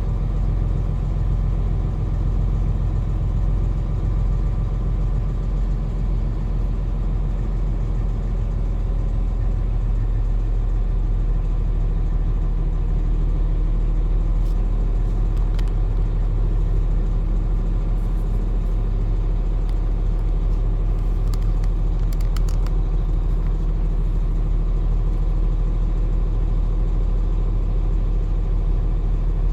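Semi truck's diesel engine and drivetrain heard inside the cab while driving slowly: a steady, even low drone with no change in pitch, and a few faint ticks about halfway through.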